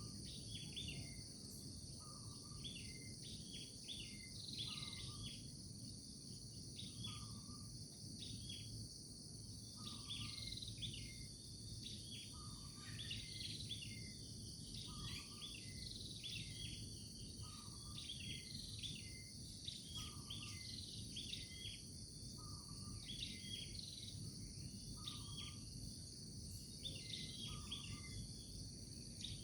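Morning nature ambience: a steady high-pitched chorus of insects such as crickets, with short bird calls throughout and a lower call repeating about every two seconds.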